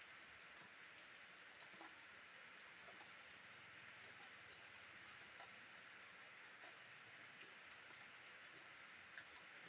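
Steady, soft rain falling, an even hiss with scattered drop ticks.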